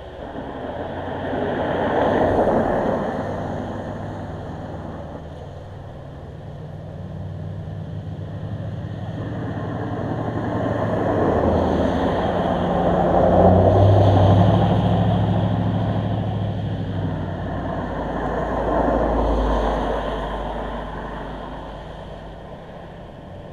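Road vehicles passing one after another, three times, each rising and fading over a few seconds. The loudest pass, about midway, has a low engine hum.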